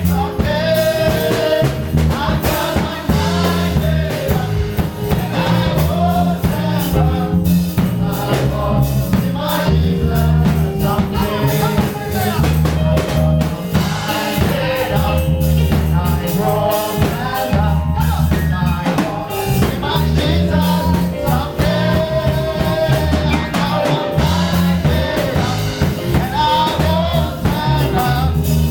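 Live gospel praise music: singers over a band with bass guitar and drum kit, playing a steady beat.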